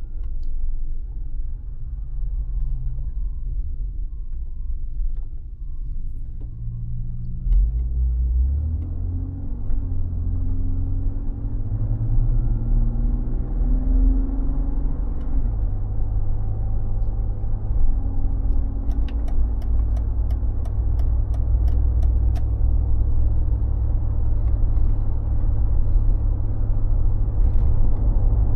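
Mercedes G36 AMG's 3.6-litre straight-six running under way, a low rumble with its pitch climbing in steps through the gears in the first half, then holding steady at a cruise. A short run of faint clicks comes about two-thirds of the way in.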